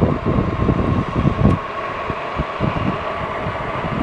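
Jansno X50 electric bike riding under motor power: wind buffets the uncovered microphone in a gusty rumble, over a steady whine from the electric motor.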